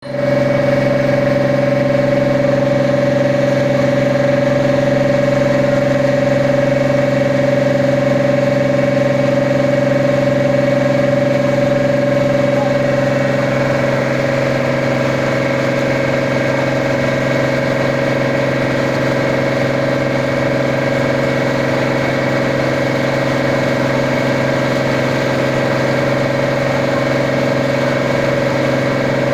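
A boat's engine running steadily: a loud, even drone with a strong low hum and a higher ringing tone, changing slightly in tone about halfway through.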